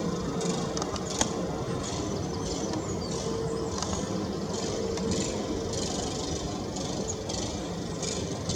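Steady low rumble of distant road traffic, with short high chirps from garden birds repeating over it and a single sharp click about a second in.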